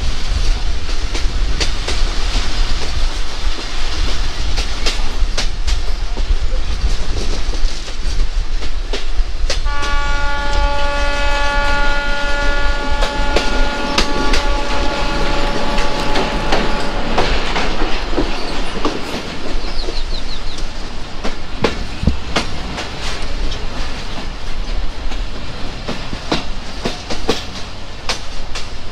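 Local passenger train running on the rails, with a steady rumble and wheels clicking over the rail joints. About ten seconds in, the locomotive horn sounds one long blast that lasts several seconds.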